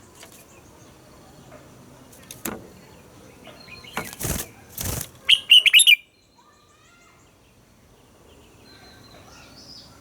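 Red-whiskered bulbul singing one loud, quick phrase of rapid notes about five seconds in, after a couple of short rustling bursts, with fainter bird notes afterwards.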